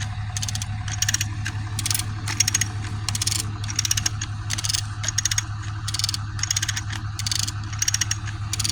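A hand ratchet worked in repeated short strokes, its pawl clicking rapidly on each stroke, about once or twice a second. A steady low hum sits underneath.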